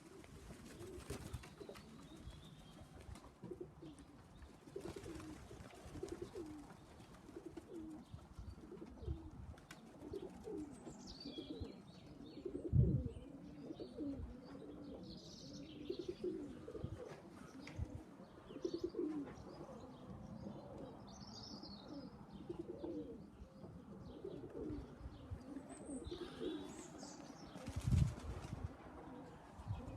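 Racing pigeons cooing over and over, with a few higher chirps mixed in. Two dull thumps, one about halfway through and one near the end.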